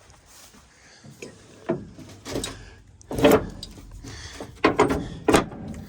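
Combine's rock trap door being swung shut and latched: a run of metal clanks and knocks, the loudest about three seconds in, with a few more sharp hits near the end.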